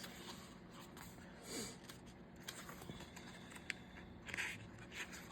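Faint paper handling as sticker book pages are turned and sorted through: a few short rustles and light clicks.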